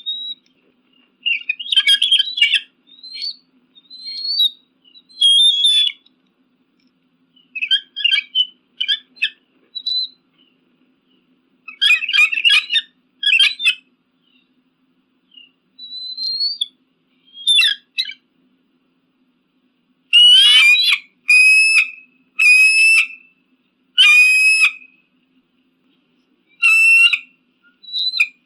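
Eagle calling in repeated bursts of high-pitched, chattering whistled notes, with short pauses between the bursts; the loudest and longest calls come in a run about two-thirds of the way through.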